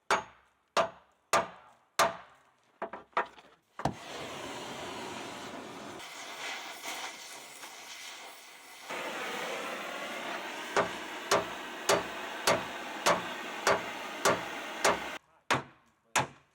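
Hammer blows at a steady pace of about three every two seconds, then a steady hiss, taken for an oxy-acetylene cutting torch, comes in about four seconds in. The hammering resumes over the hiss later on, and a few last blows follow when the hiss cuts off near the end.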